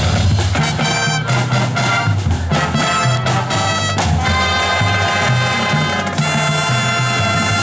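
High school marching band playing: brass chords over low brass and drums, with sharp percussion hits.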